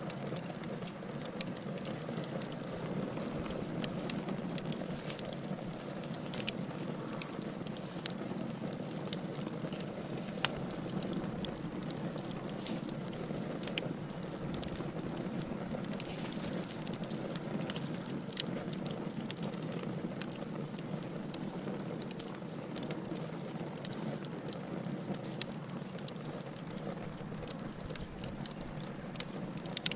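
Wood fire crackling in a fireplace: a steady low rush with frequent irregular sharp pops and snaps.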